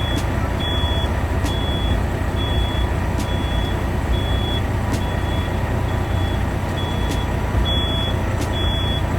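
A truck's reversing alarm beeping steadily, a short high beep a little more than once a second, over the low steady rumble of an idling diesel truck engine.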